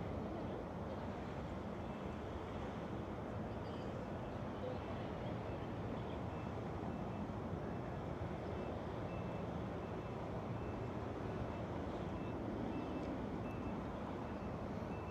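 Steady low outdoor rumble. From about five seconds in, a short high beep repeats about twice a second.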